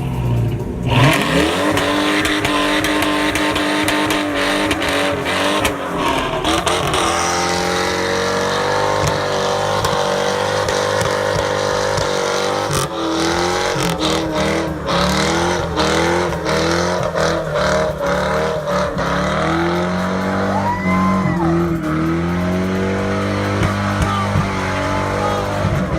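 A car doing a burnout: its engine revs hard, the pitch rising and falling again and again, over the hiss and squeal of spinning tyres.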